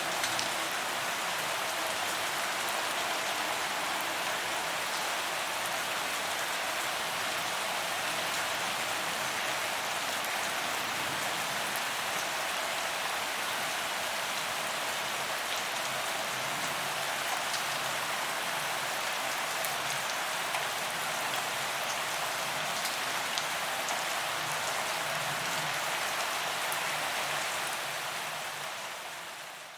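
Steady rain falling on paved ground, the even hiss of many drops hitting pavement, with a few sharper drop ticks. It fades out near the very end.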